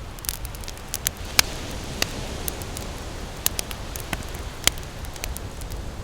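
Wood campfire crackling, with irregular sharp pops and snaps, two of them louder than the rest. Underneath runs a steady low rumble and hiss of ocean surf that swells a little partway through.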